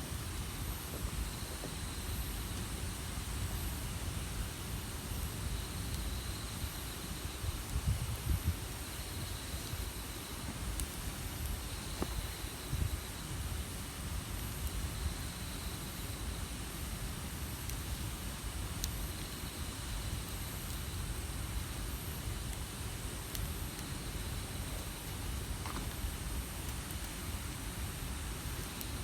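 Wood campfire burning outdoors, with a few isolated sharp pops over a steady low rumble. A faint high chirp pulses about once a second.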